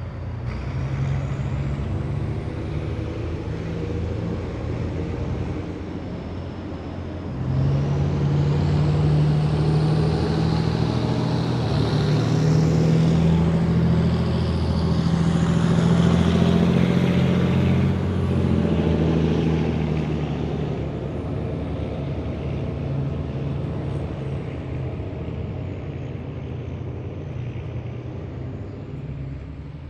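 Heavy military vehicles driving past in a parade column, their big diesel engines droning. The sound swells as one passes close, from about a quarter to two-thirds of the way through, with a high whine that rises and falls, then fades away.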